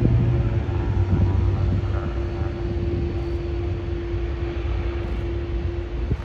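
Jet airliner's engines running past at close range: a heavy low rumble with a steady whining tone over it, slowly fading.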